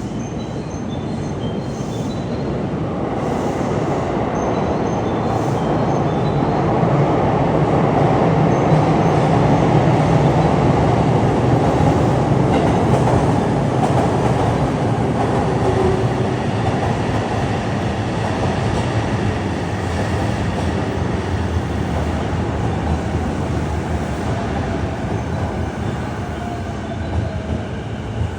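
JR East E233-7000 series electric train running into an underground station platform, its rumble and wheel noise building to a peak about ten seconds in, then easing as it slows. Near the end a faint whine falls in pitch as the train brakes to a stop.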